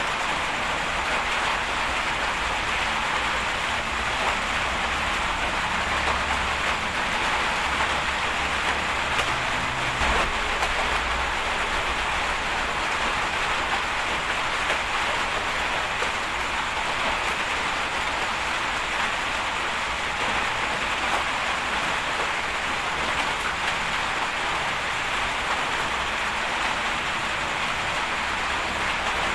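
Bulldozer's diesel engine running steadily under load with a constant hiss, and a single knock about ten seconds in.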